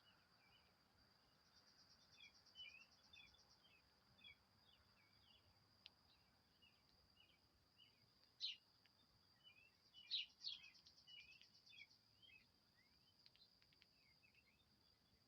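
Faint chirping of small songbirds: many short, quick high calls scattered throughout, with two louder sharp notes in the middle. Under them runs a steady high insect-like tone, which twice turns into a fast pulsing trill for a couple of seconds.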